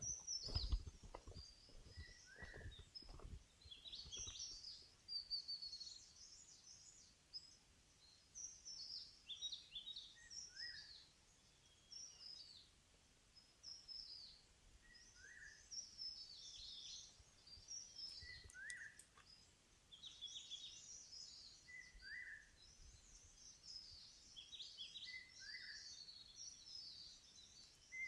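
Several forest birds singing and calling, faint, with a short lower call repeated every three or four seconds. A few low thumps in the first few seconds.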